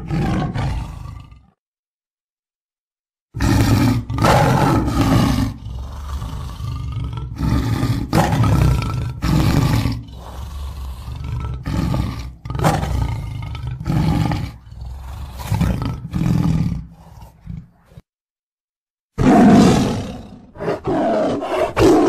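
Siberian tiger roaring in a series of repeated calls. There is a short roar at the start, a long run of roars from about three seconds in to about eighteen, and a loud final bout near the end, with abrupt dead-silent gaps between them.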